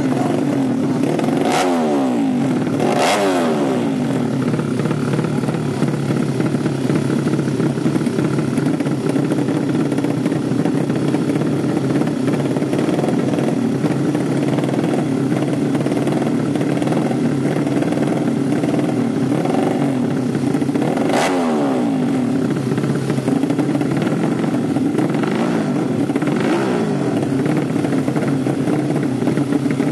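200cc drag-race motorcycle engines running loudly and steadily, with bikes revving and passing close by, their pitch dropping as they go past: twice near the start and once about two-thirds of the way through.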